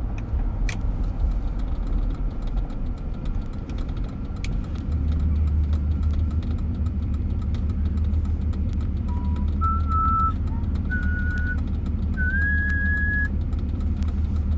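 Car driving, heard from inside the cabin: a steady low road and engine rumble that gets louder about five seconds in. Near the end come a few short, high whistled notes at slightly different pitches.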